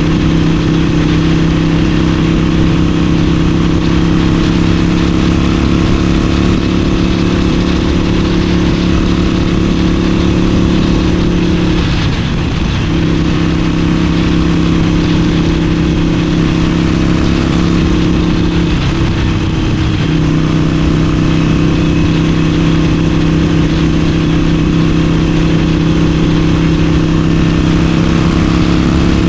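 Harley-Davidson Forty-Eight's 1200 cc air-cooled V-twin running steadily under load at cruising speed, through a Vance & Hines aftermarket exhaust. The engine note dips and wavers briefly about twelve seconds in and again around twenty seconds, as the throttle is eased and reopened.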